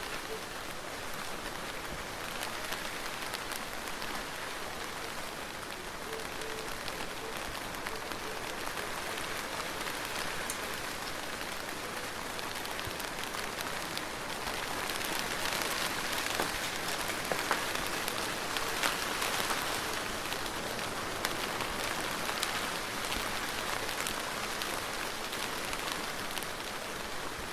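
Soft, steady rain falling: a gentle hiss with many separate drops ticking through it. It gets slightly heavier about halfway through.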